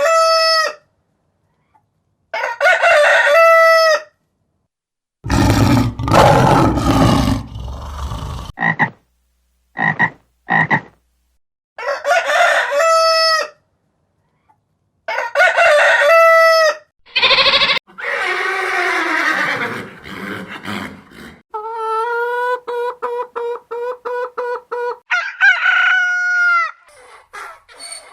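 A string of separate farm animal calls: a rooster crowing several times, with other animal calls in between, including a long falling call and a rapid stuttering run of croaking notes.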